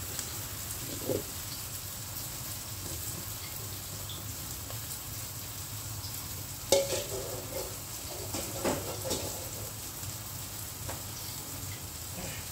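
Onions and chillies frying in a wok, a steady sizzle, with a sharp knock about seven seconds in and a few light clatters a couple of seconds later.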